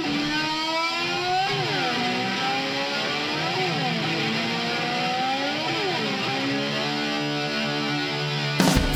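Distorted electric slide guitar imitating a motor scooter revving: a held note that slides up and falls back three times. Drums and the full band come in near the end.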